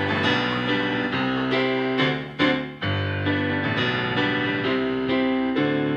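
Piano accompaniment playing sustained chords, with fresh chords struck every second or so and a strong one about two and a half seconds in.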